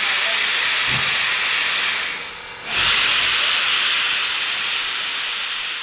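Black River & Western No. 60 steam locomotive venting steam with a loud, steady hiss. The hiss drops away briefly about two and a half seconds in, comes back at full strength and then slowly fades.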